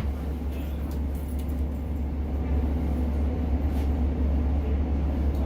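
Steady low drone and rumble inside the carriage of a Class 150 diesel multiple unit, from its underfloor diesel engine and running gear, with a few faint clicks.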